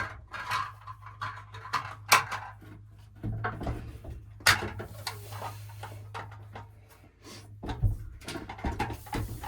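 Scattered clicks, knocks and thumps of plumbing parts being handled and fitted, the sharpest about two seconds in and four and a half seconds in, over a faint steady low hum.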